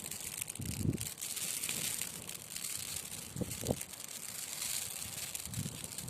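Log fire burning in a fireplace: a steady hiss with many small crackles and pops, broken by three brief low rumbles.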